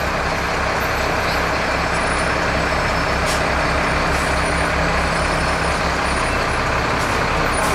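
A fire engine running steadily, heard from inside its cab: a low engine drone with road and cab noise and a few light rattles.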